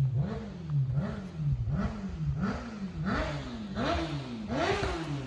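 Another vehicle's engine being revved in quick repeated blips, about two a second, each rev peaking a little higher than the last.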